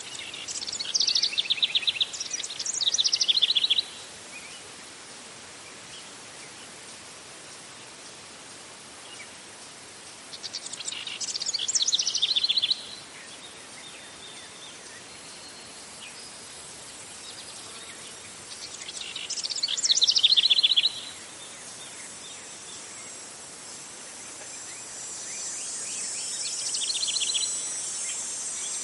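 Outdoor bird and insect ambience: a bird sings three loud phrases of rapid repeated notes about eight seconds apart over a steady hiss. Near the end a high insect trill builds in.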